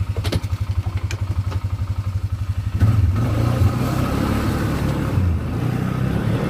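ATV engine idling with a steady, fast pulsing note. About three seconds in it is revved under load, louder and wavering in pitch, as the machine strains against tires frozen to the ground.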